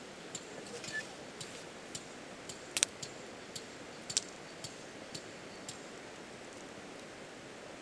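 Wood fire crackling: sharp, irregular pops and snaps about twice a second over a low hiss. Two louder snaps come about three seconds in and a second later, and the pops die away for the last two seconds.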